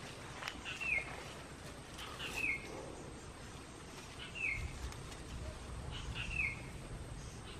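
A bird calling over and over, each call a short note that slides down in pitch, four calls about two seconds apart. A few faint clicks sound near the start, and a low rumble comes through around the middle.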